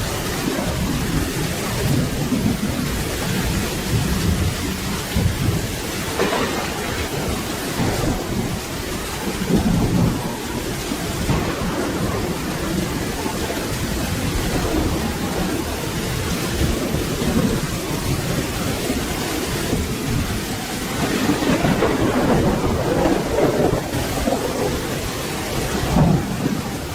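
Steady rain with thunder rumbling low underneath, the rumble swelling louder about three-quarters of the way through.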